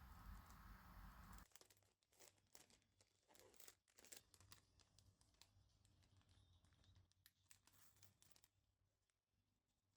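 Faint crinkling and light clicks of a plastic outer sleeve being handled around a CD case, after a low background hum cuts off about one and a half seconds in.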